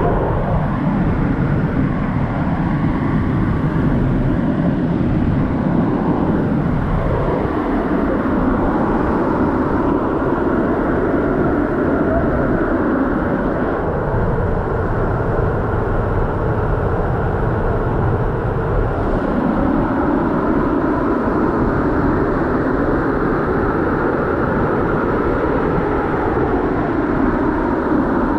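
Waterfall: a loud, steady rush of falling water, with most of its weight in the low and middle range.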